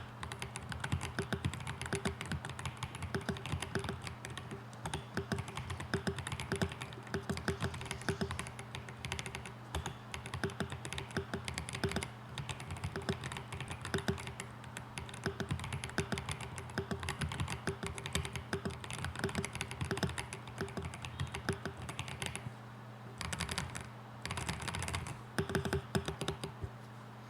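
Rapid, continuous typing on a CMK75 mechanical keyboard with stock, unmodded Glacier Pink linear switches, stock stabilizers and FSA-profile keycaps. The typing pauses briefly about 22 seconds in and stops just before the end.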